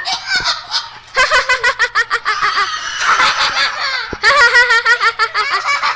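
A parrot calling loudly in rapid, harsh, cackling runs, three long bouts with brief breaks about a second in and about four seconds in.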